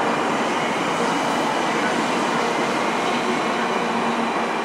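Shinkansen bullet train pulling out alongside the platform: a steady, continuous rush of the moving cars with a faint steady whine.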